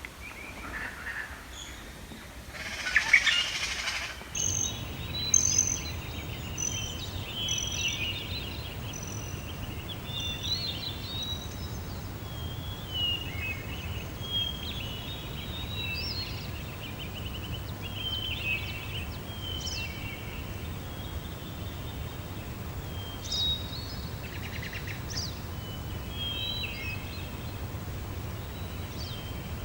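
Songbirds chirping and calling in many short, overlapping phrases. A louder, harsh call comes about three seconds in, and a steady low rumble sets in underneath about a second later.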